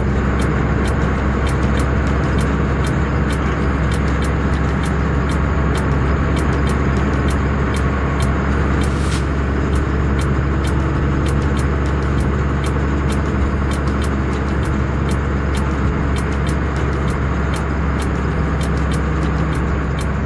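Tata truck's diesel engine running under way at a steady pace, with road noise: an even, loud drone.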